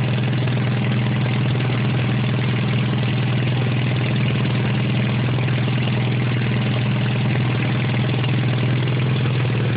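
Allis-Chalmers B tractor's four-cylinder gasoline engine running at a steady idle.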